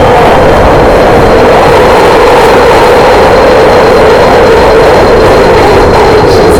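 London Underground train running, a loud steady roar with a wavering rumbling hum, as heard inside or beside a tube train in a tunnel.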